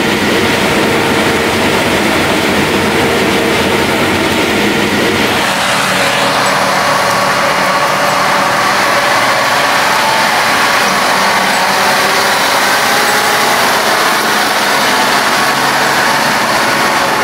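Heavy farm machinery running steadily. About five seconds in, the deep hum drops away abruptly and a higher, steady whine takes over.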